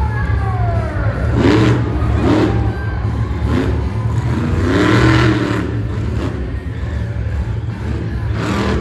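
Monster truck engine running with a steady low rumble and revving up and down several times.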